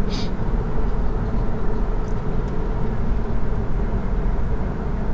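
Steady road and tyre noise heard inside the cabin of a moving Chevy Bolt electric car towing a trailer, with no engine sound. A brief hiss comes right at the start.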